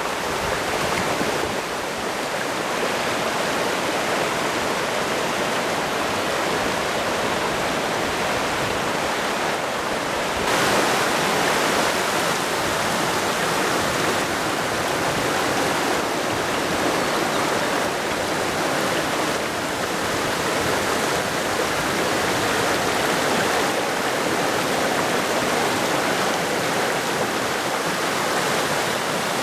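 Mountain stream rushing steadily, a little louder from about ten seconds in.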